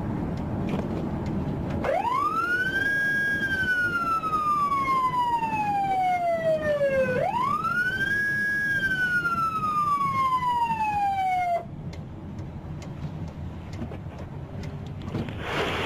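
Police car siren on wail: two slow cycles, each rising quickly and then falling slowly, switched off suddenly about twelve seconds in. Vehicle and road noise runs underneath, with a brief burst of hiss near the end.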